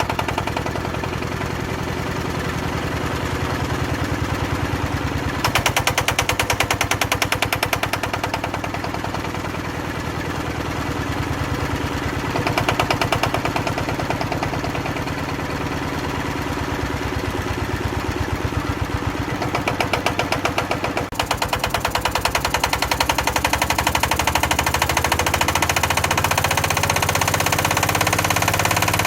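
Old Daedong power tiller's single-cylinder diesel engine running with a fast, even firing beat. Its speed rises and falls several times, running harder from about twenty seconds in, as the long-neglected engine is brought back to life.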